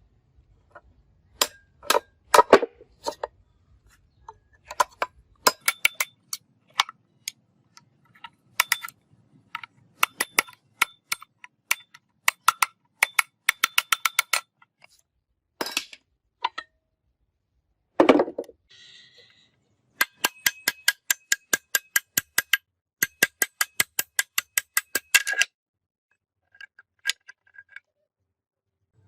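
Metal being struck with a hammer: sharp, ringing clinks, mostly in runs of quick, even taps of about four a second, with a single heavier knock a little past halfway.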